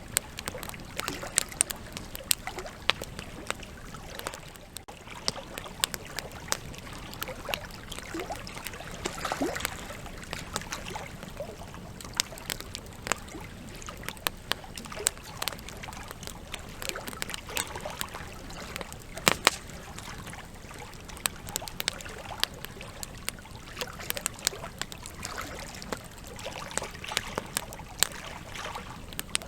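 Campfire logs crackling and popping: a steady hiss of burning wood with sharp irregular snaps, several a second, a few of them louder.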